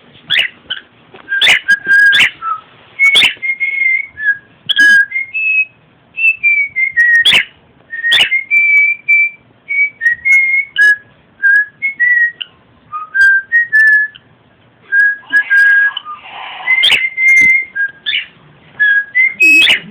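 Cockatiel whistling a tune: a long run of short, clear notes stepping between a few pitches, with sharp clicks scattered among them.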